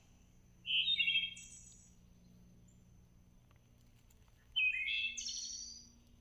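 A songbird sings two short phrases about four seconds apart. Each is a quick run of notes that jumps from a lower pitch to a higher one.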